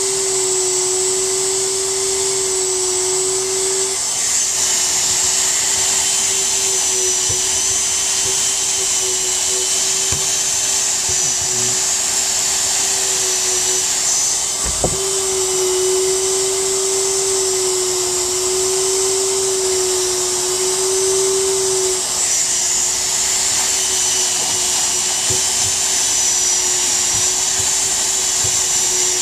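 Handheld hot air welder running steadily, its blower motor whining over a loud rush of hot air, while it welds a seam in PVC mesh tarp fabric with the heat turned up. A single short knock sounds about halfway through.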